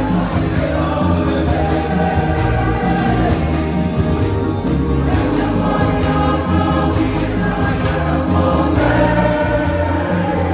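Church choir singing a hymn in harmony, backed by a band with a steady bass line and a regular percussion beat.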